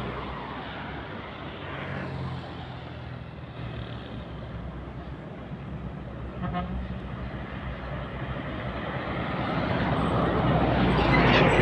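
Road traffic: a heavy vehicle's engine running and fading away, a short horn toot about six and a half seconds in, then another large vehicle coming closer and passing, loudest near the end.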